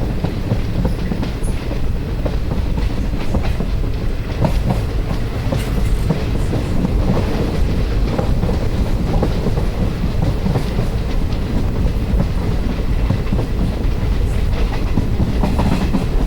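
Train running on the line: a steady loud rumble, with the wheels clattering over rail joints as short clicks throughout.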